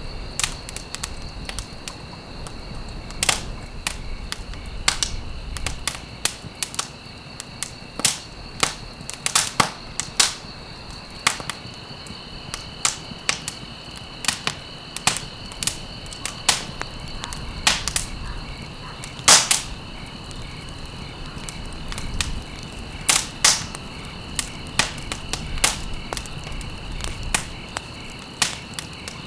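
Burning wood in a fireplace crackling: irregular sharp pops and snaps, with a few louder pops scattered through, over a low hiss. A steady high-pitched tone sits underneath.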